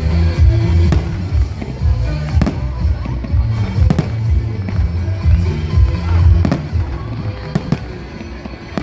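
Fireworks bursting with sharp bangs every second or two, over loud, bass-heavy music.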